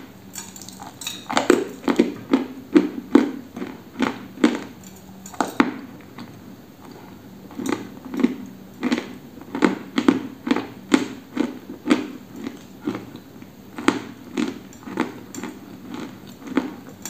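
Close-miked chewing of a dry, crumbly white block: crisp crunches about two and a half a second, pausing briefly around six seconds in, then resuming.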